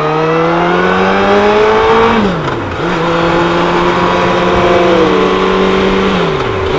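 Suzuki Hayabusa's inline-four engine under way, its pitch rising as it accelerates through a gear, then dipping and picking up again about two seconds in as it shifts up. It holds a steady pitch for a few seconds, then dips for another shift near the end.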